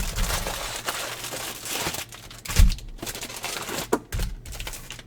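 Foil wrapper of a baseball card pack crinkling as it is handled, with one dull thump about halfway through.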